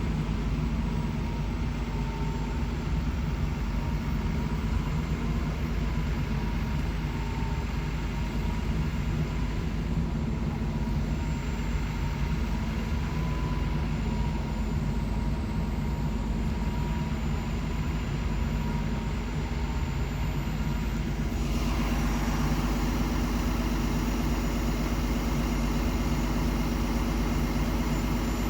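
Fire engine's diesel running steadily at idle with a low, even drone. A steady hiss joins about two-thirds of the way through.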